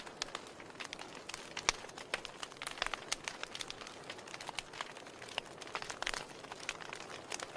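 Wood fire in a fireplace crackling: irregular sharp pops and snaps over a soft hiss, with a louder pop a little under two seconds in.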